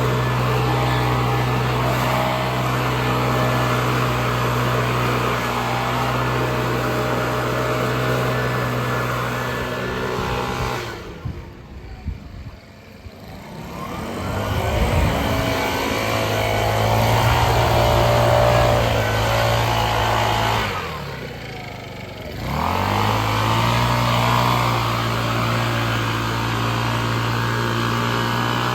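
Small petrol engine of a garden power tool running steadily at high revs, throttled down twice and revved back up each time.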